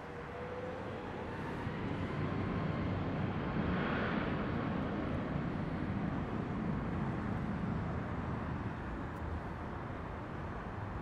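Jet airliner engines heard at a distance: a broad rushing noise with a faint whine that swells to its loudest about four seconds in, then slowly eases off.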